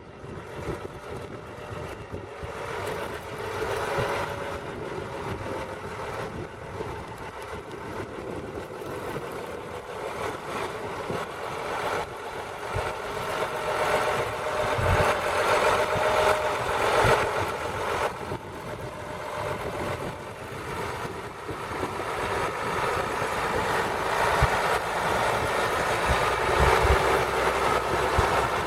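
County 1184 four-wheel-drive tractor's diesel engine running steadily while ploughing, growing gradually louder.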